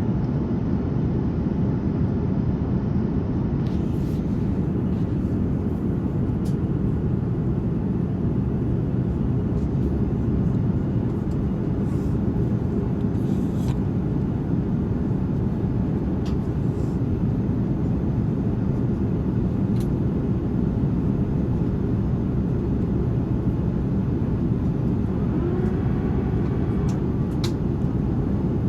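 Steady in-flight cabin noise of an Airbus A330-200 heard from a window seat: a constant low rumble of engines and airflow, with a few faint clicks.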